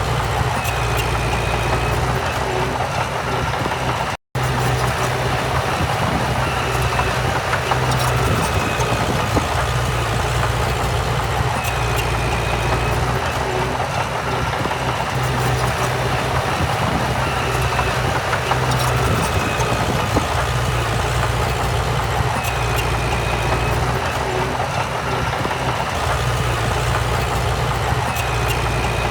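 Heavy diesel earthmoving machinery running steadily with a low drone. Faint short high-pitched tones come back every five or six seconds, and the sound cuts out briefly about four seconds in.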